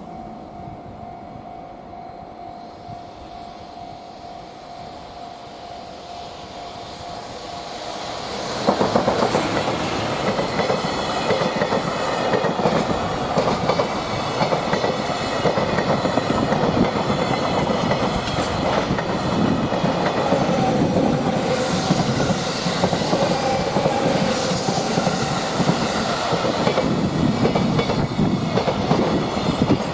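Freight train passing on the Tokaido Line: a steady hum that grows as the train approaches, then from about eight seconds in, loud, continuous clickety-clack of wagon wheels over the rail joints.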